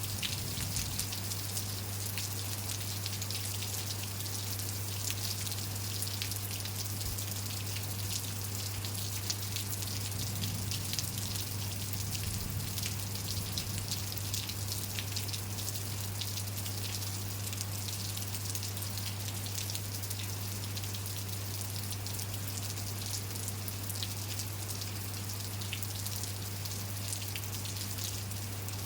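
Steady rain falling, with many individual drops pattering on surfaces, and a low steady hum underneath.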